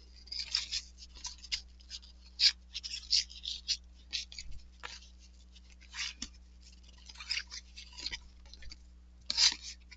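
Cardboard trading cards slid and flicked off a stack one after another: a string of short, dry scrapes and clicks in irregular clusters.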